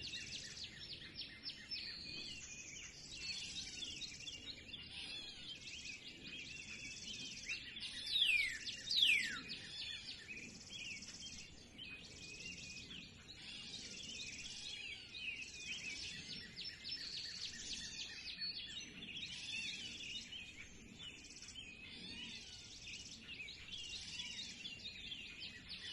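Many birds singing at once in a dense spring chorus of overlapping chirps and trills. About eight and nine seconds in, two loud whistles sweep steeply downward in pitch.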